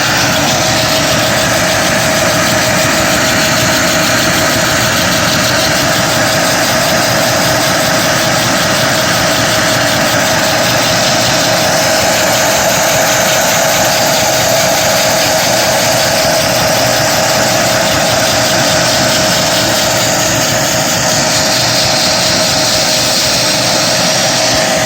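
Vacuum cleaner running steadily with a constant whine, its suction driving a prototype Lego rotary-valve engine.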